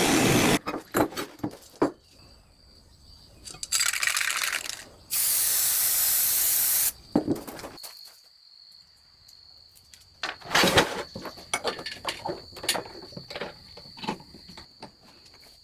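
Knife-making work at a bench: irregular clicks and knocks of metal being handled, with two bursts of hiss, the second loud and about two seconds long. A faint steady high whine runs through the second half.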